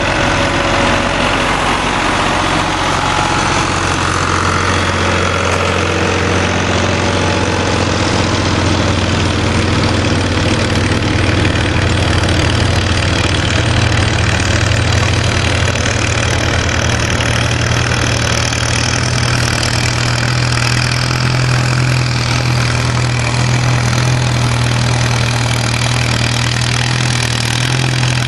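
Antique tractor engine running steadily and loudly, its pitch edging up a little about halfway through.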